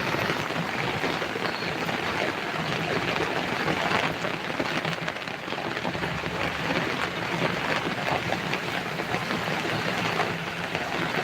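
Heavy rain pouring down: a steady, dense hiss of falling water.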